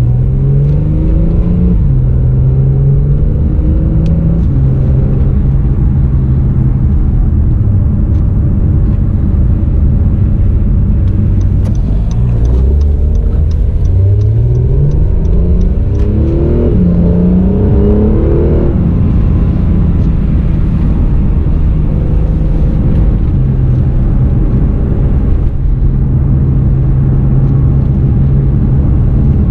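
2017 Acura NSX's twin-turbo V6 engine pulling hard twice, its pitch rising and stepping down through gear changes, once near the start and again from about twelve to eighteen seconds in, settling to a steady drone between and afterwards.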